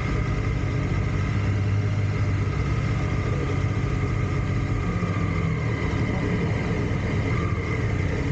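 Triumph Tiger Sport 660's three-cylinder engine running steadily and evenly, its note shifting slightly about five seconds in.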